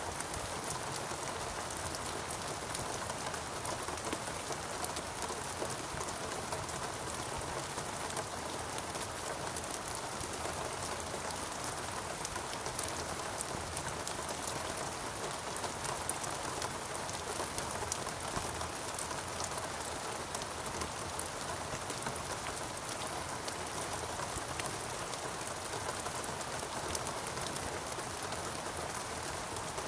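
Steady rainfall, many raindrops pattering on surfaces in an even, unbroken hiss.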